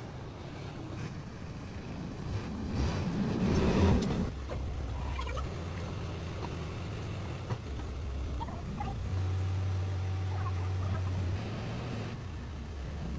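Car engine running at a low steady hum, rising to a brief louder rev about three to four seconds in, then settling back.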